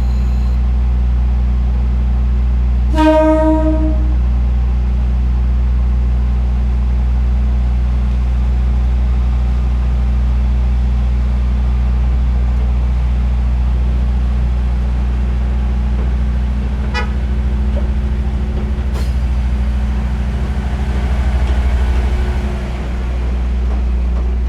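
Diesel train engine idling steadily, with a short horn blast about three seconds in. Two sharp clicks come later, then a swelling rush of noise near the end.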